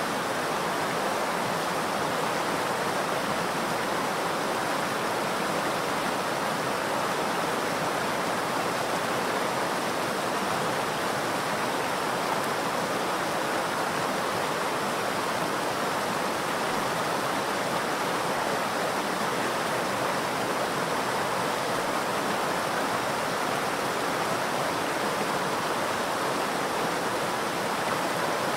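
Virgin River flowing steadily over its bed, an even rush of water with no breaks or separate splashes.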